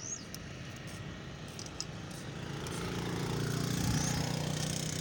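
An engine running, its low hum growing louder from about halfway through.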